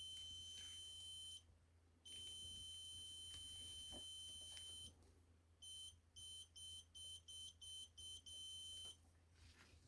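Homemade continuity tester's beeper giving a steady high tone that breaks off briefly about a second and a half in, comes back, then from about halfway cuts in and out in a quick run of short beeps. The beeping making and breaking is the sign of an intermittent break in the heater's power-cord wire as the cord is flexed.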